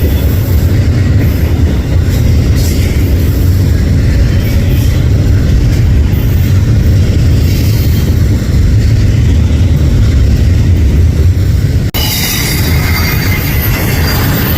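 Railcars of a freight train rolling past close by with a heavy, steady rumble. About twelve seconds in the sound breaks off abruptly and picks up again with a high-pitched squeal over the rumble, typical of wheel squeal.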